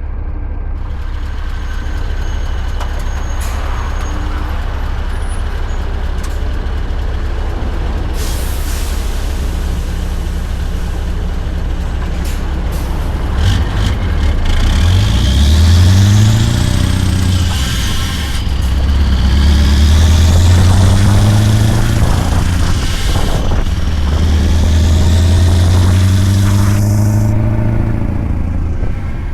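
Scania R580's 16-litre V8 through a straight-piped 8-inch exhaust: a steady low drone, then it pulls hard, climbing in pitch three times with a drop at each gear change. A short burst of air hiss sounds about a third of the way in.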